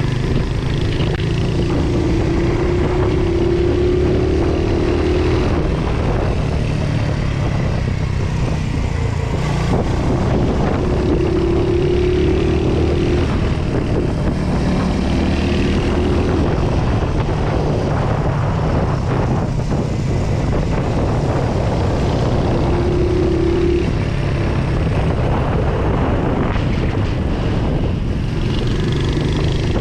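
Royal Enfield Hunter 350's 349 cc single-cylinder engine running through its stock silencer, a steady exhaust note with the revs rising briefly several times.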